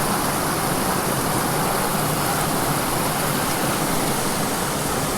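Steady rush of a small waterfall and its fast-running stream.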